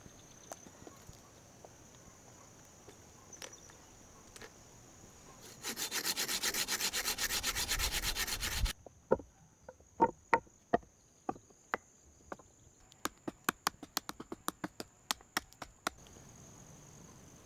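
Hand tools working wood: about three seconds of fast, even rasping strokes, then a run of sharp knocks and taps. A high, steady insect buzz runs underneath.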